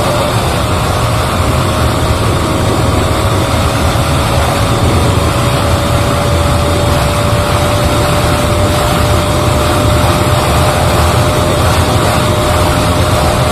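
Bajaj Pulsar RS200's single-cylinder engine held at high revs near its top speed: a steady whine that climbs very slowly, under loud rushing wind on the microphone.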